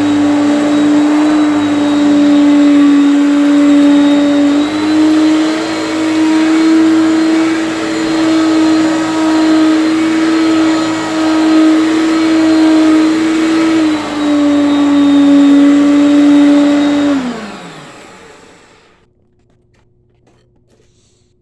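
Hoover Concept One upright vacuum cleaner running with a steady motor whine; its pitch rises slightly about five seconds in and drops back around fourteen seconds. Near the end it is switched off and the motor winds down, falling in pitch until it goes quiet.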